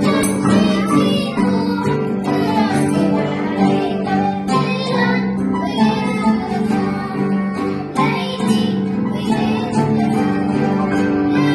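Arabic Christmas hymn sung by several voices with plucked acoustic guitar accompaniment.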